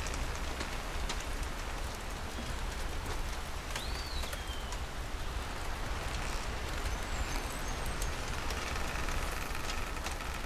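Steady rain patter, an even hiss sprinkled with fine crackling drops. About four seconds in, a single short whistle rises and falls, and faint high chirps come a few seconds later.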